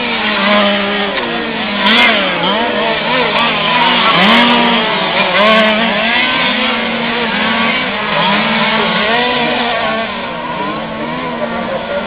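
Several 1/5-scale RC cars' small two-stroke petrol engines racing, revving up and down over one another with constantly rising and falling pitch.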